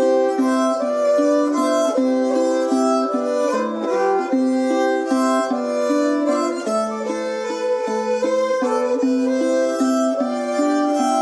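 Instrumental folk waltz led by fiddle, with plucked string accompaniment, playing continuously.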